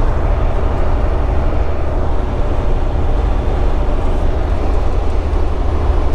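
Steady low drone of a semi-truck's diesel engine and road noise heard inside the cab while cruising on the highway.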